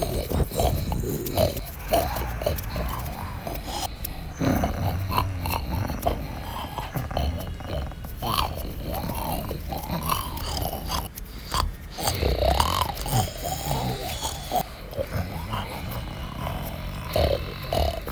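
Large animals growling, snarling and grunting in a fight, in irregular bursts with a low rumble underneath.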